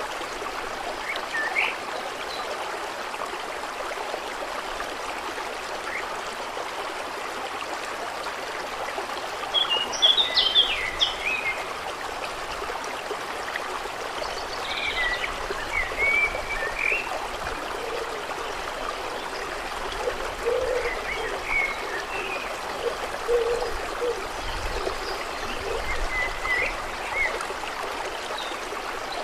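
Steady running, trickling water with birds chirping over it in short bursts, loudest about a third of the way in. A few low frog croaks sound under the water in the second half.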